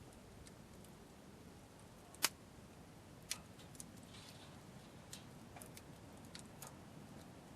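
Campfire wood crackling: scattered sharp pops at irregular intervals, one loud snap a little over two seconds in and a smaller one a second later, over a faint low hiss.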